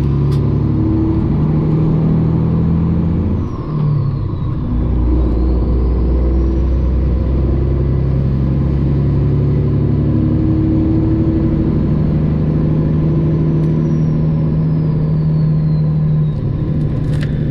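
Straight-piped Detroit Diesel 12.7 in a Freightliner Classic XL semi truck pulling at low speed, its deep engine note dipping and shifting pitch about four seconds in as it changes gear, with a faint high whine rising and falling along with the engine.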